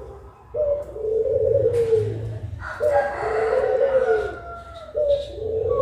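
Puter pelung dove cooing: a short higher note then a long, arching lower coo, repeated three times about two seconds apart.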